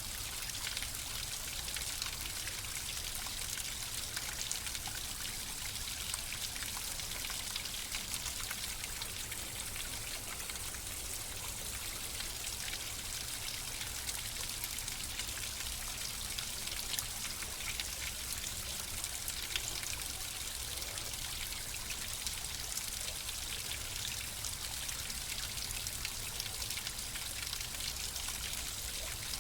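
Flowing water running steadily, a trickling stream with fine splashing and dripping.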